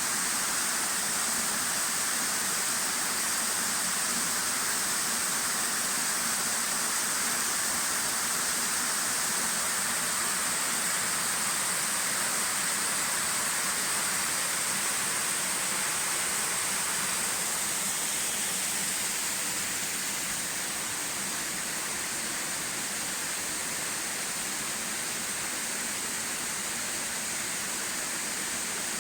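Amagoi Falls, a waterfall, with falling water rushing steadily, a dense even roar of spray and splash. It eases slightly about two-thirds of the way in.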